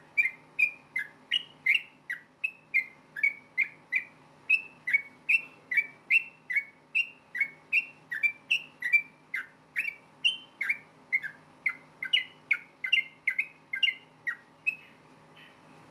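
Yellow-vented bulbul (trucukan) calling in a fast run of short whistled notes, about three a second, that stops shortly before the end.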